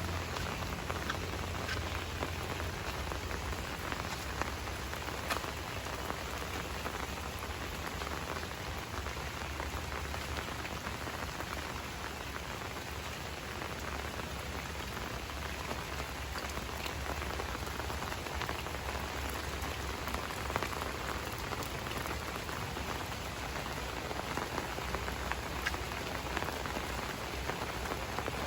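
Steady rainfall, with scattered sharper hits of individual drops.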